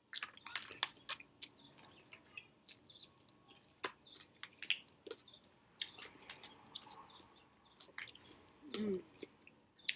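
A person chewing food close to the microphone: an irregular run of soft wet mouth clicks and smacks, with a brief hum about nine seconds in.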